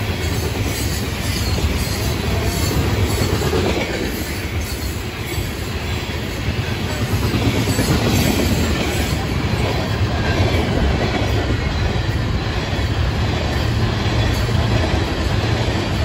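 Freight railcars (open hoppers and gondolas) rolling past close by: a steady rumble of steel wheels on rail with a repeated clacking of wheels over the rail joints.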